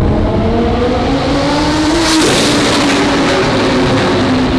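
Twin-turbo Lamborghini Huracán V10 at full throttle on a flyby in a tunnel, very loud and echoing. The engine note climbs, drops sharply about two seconds in as the car passes, then climbs again.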